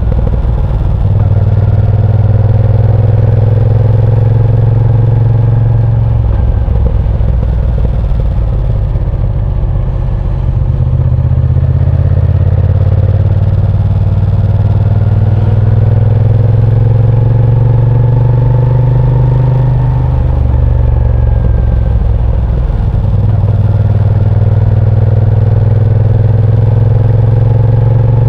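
Moto Guzzi V7 Sport's air-cooled transverse V-twin running under way, its deep exhaust note rising and falling with the throttle. The note shifts abruptly a few times, as with gear changes through corners.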